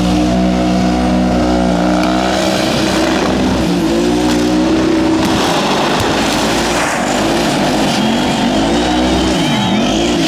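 Twin-turbo burnout car's engine held at high revs while it spins its rear tyres, the engine note wavering up and down over a haze of tyre noise. Near the end the revs drop sharply and climb back twice.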